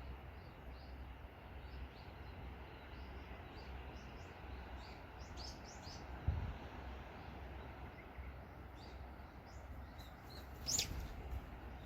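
Small birds chirping in short repeated notes over a steady low wash of sea waves. A dull thump comes about halfway through, and near the end a louder call sweeps down in pitch.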